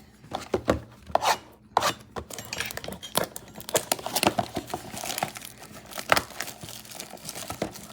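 Cardboard trading-card blaster boxes being torn open by hand: irregular tearing, scraping and crinkling of cardboard and plastic wrap, with sharp clicks and taps.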